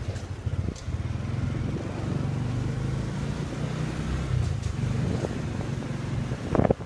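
Motorbike taxi's small scooter engine running steadily at riding speed, a low drone with road and wind noise heard from the pillion seat. A few short, louder bumps come near the end.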